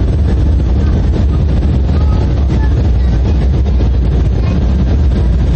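Steady low roar inside the cabin of an Embraer regional jet on approach: its turbofan engines and the rush of air over the fuselage, heard from a passenger seat.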